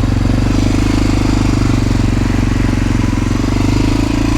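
1988 Honda NX650 Dominator's single-cylinder four-stroke engine running steadily at riding speed, with a haze of wind noise on the helmet microphone. The engine note dips briefly near the end.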